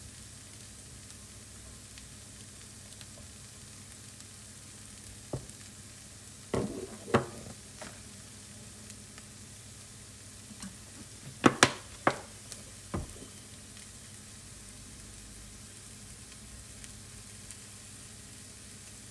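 Diced potatoes and red pepper frying in a pan with a steady low sizzle. A few sharp clicks and knocks come in the middle, two clusters of them, from handling things at the pan.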